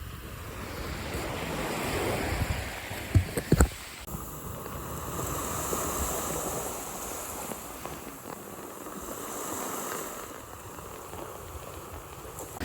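Surf washing in with wind on the microphone, rising and falling in slow swells. A few sharp knocks come about three seconds in, and the sound changes abruptly a second later.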